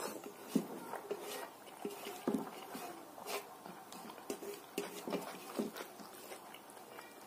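Eating by hand: chewing and lip-smacking with irregular short wet clicks, as fingers mix rice and sambar on a metal plate.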